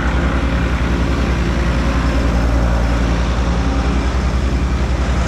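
A heavy engine running steadily close by, with a low, even throb.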